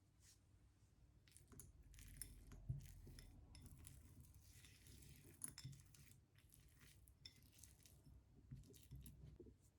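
Faint, scattered clinks and scrapes of a utensil against a small dish while cookie dough is handled.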